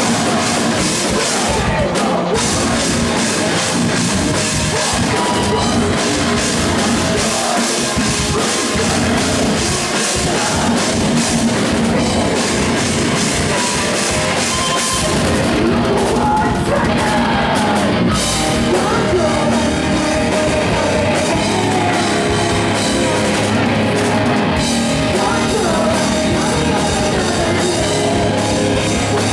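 Five-piece post-hardcore band playing live and loud, a heavy rock song driven by a drum kit.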